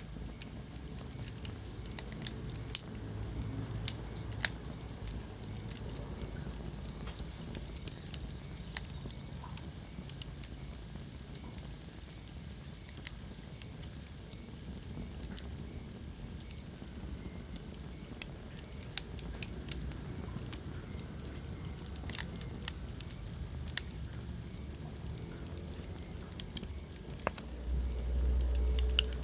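Wood fire burning in a fireplace, crackling with sharp, irregular pops over a steady low rumble. The rumble swells briefly near the end.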